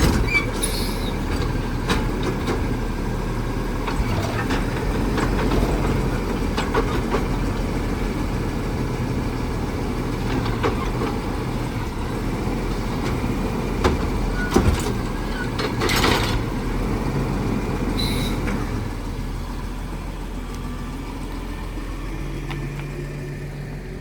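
Side-loader garbage truck's diesel engine running, with scattered knocks and clanks and two short air hisses about 16 and 18 seconds in. The truck grows quieter over the last few seconds.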